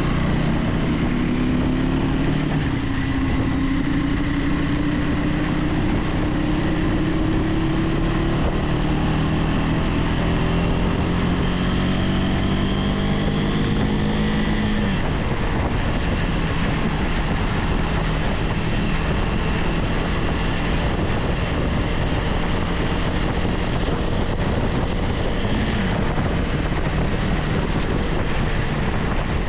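KTM 390 Adventure X's single-cylinder engine running on the move, with wind rush on the microphone. The engine note climbs slowly for about fifteen seconds, drops suddenly, then runs steadier.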